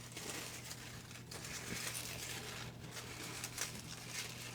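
Slips of paper rustling and crinkling close to the microphone as hands rummage through them, with a few small sharp ticks.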